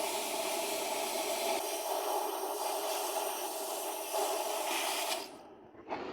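A loud, steady hiss with a constant tone running through it, cutting off sharply about five seconds in; a quieter, rougher noise starts near the end.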